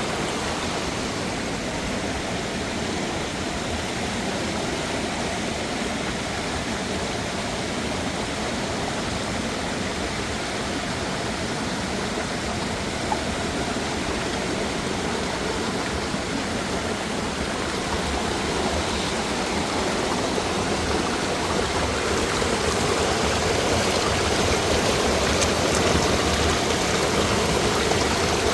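Mountain stream and waterfall: water rushing and splashing over rocks in a steady wash that grows a little louder past the middle.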